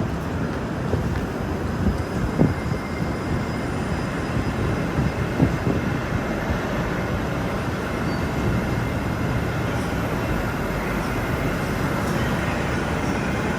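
Metro train running, a steady rumble of wheels on rails, with a couple of short knocks a few seconds in.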